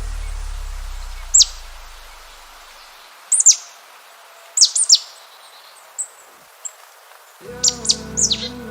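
Small bird chirping: short, high calls that fall quickly in pitch, one at a time and in quick pairs and clusters, over a faint hiss. A low tone fades away during the first two seconds, and music comes back in near the end.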